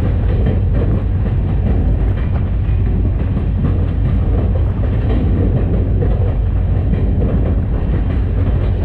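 EMD SD40-2 diesel locomotive under way, a steady deep rumble of its two-stroke V16 engine mixed with wheel and rail noise, heard from a camera mounted outside on the short nose.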